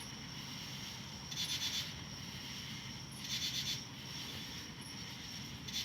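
Insects chirping outdoors: short, rapidly pulsed high-pitched chirps repeating about every two seconds, over a steady thin high whine.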